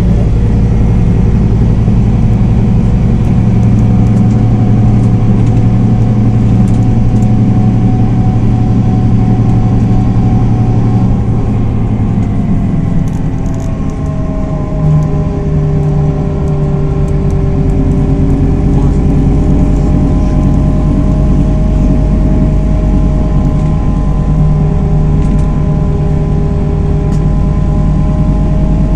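A 2010 Scania Irizar i4 bus's 320 hp Scania diesel engine running under way, heard from inside the cabin: a steady low drone with thin whining tones above it. The note drops and shifts about twelve seconds in, then settles into a new steady pitch.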